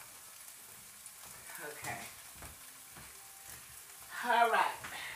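Tomato sauce sizzling in a frying pan, a faint steady hiss, with a short burst of a person's voice about four seconds in.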